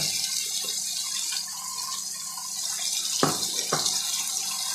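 Chicken pieces sizzling in hot oil in a nonstick pan, a steady frying hiss. About three seconds in, two sharp knocks as chopped onion is added to the pan.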